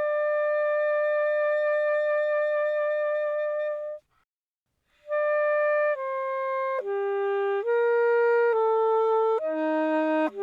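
Selmer Paris Jubilee Series III alto saxophone played solo with no added effects, a slow melody: one long note held with vibrato for about four seconds, a breath of about a second, then the same note again moving into a slow phrase of changing notes.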